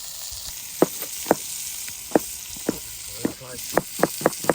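Chicken frying in a pan, a steady sizzle, with sharp knocks over it: a few scattered ones at first, then about four a second near the end.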